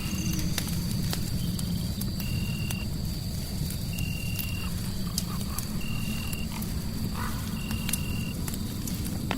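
Crackling fireplace with scattered sharp pops over a low steady rumble. A short high chirp repeats about every second and a half, over a faint steady high tone.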